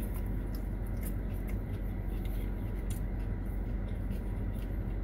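Chewing with many small wet mouth clicks from someone eating sushi close to the microphone, over a steady low hum.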